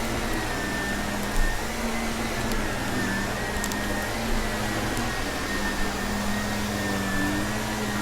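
Vacuum cleaner running steadily, its motor hum and whine wavering slightly in pitch, with a few sharp clicks of crunchy debris being sucked up.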